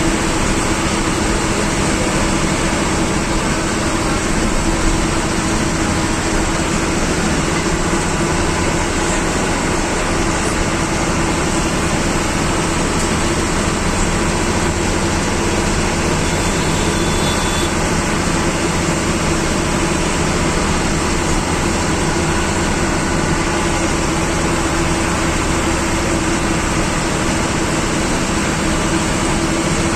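Diesel engine of a government bus running steadily on a hill road, heard from inside the driver's cabin along with road noise. A steady hum holds through without gear changes or pauses.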